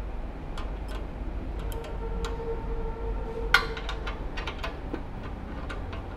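Irregular metal clicks and clinks of hand tools on a motorcycle engine as its bolts are refitted, with one sharp, louder clink about three and a half seconds in, over a low steady background rumble.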